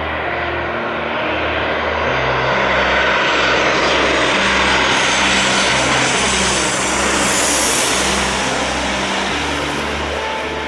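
Jet airliner passing close, its engine noise swelling to a peak midway and easing off, with a high engine whine falling in pitch as it goes by. Trance music with a stepped bass line plays underneath.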